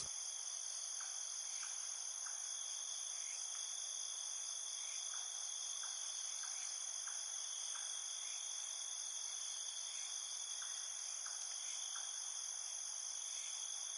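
Steady, high-pitched insect chorus, with faint short chirps repeating about every half second.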